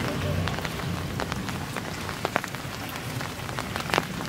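Heavy rain falling steadily, with scattered sharp ticks of large drops striking a hard surface close by; one stronger tick comes near the end.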